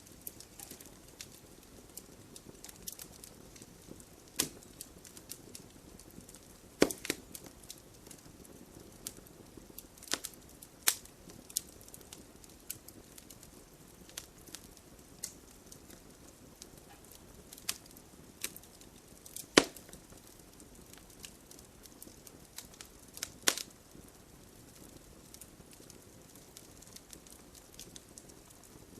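Wood logs burning in a fireplace: a steady low rustle of flames with frequent small crackles and a few louder, sharp pops scattered through.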